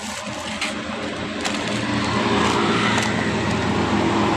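A motor vehicle engine running steadily and growing gradually louder, with a few faint clicks.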